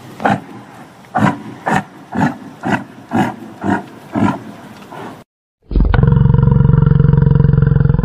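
Yak grunting in a steady series, about two short grunts a second. After a short break it gives one long, loud, low bellow lasting over two seconds.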